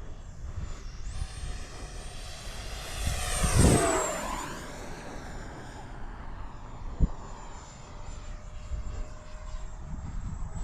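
Electric ducted-fan whine of a 70mm Freewing F-22 Raptor RC jet making a pass, swelling to its loudest about three and a half seconds in and dropping in pitch as it goes by. A low rumble runs underneath, and a single sharp knock comes about seven seconds in.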